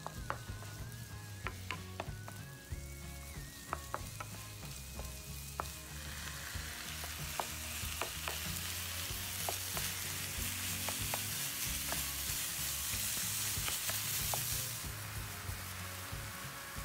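Chopped onion and ground meat sizzling as they are stir-fried in a frying pan, with a wooden spatula clicking and scraping against the pan. The sizzling grows louder about six seconds in and eases off near the end.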